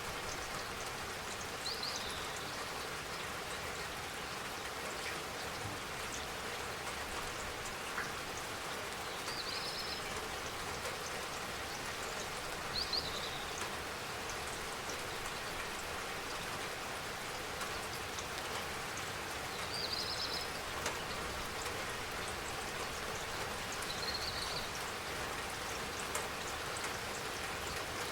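Steady spring rain falling, an even hiss of drops. A bird gives a short high chirp every few seconds.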